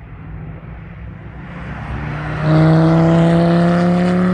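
A sports car coming round the track under acceleration: a low engine rumble grows, then about two and a half seconds in the engine note turns loud, its pitch rising steadily as the car closes in.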